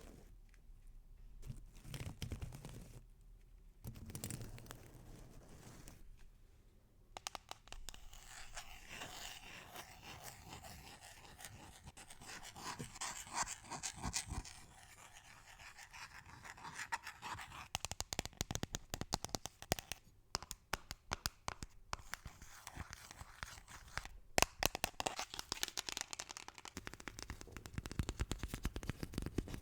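Close-miked scratching and tapping with dense, rapid clicks and crackles, sparse at first and busier from about seven seconds in, with a few short pauses.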